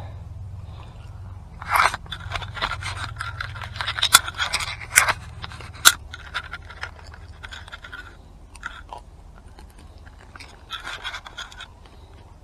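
Close scraping and rustling with a run of sharp clicks as a hook is worked out of a northern pike's throat, busiest in the first half and again briefly near the end.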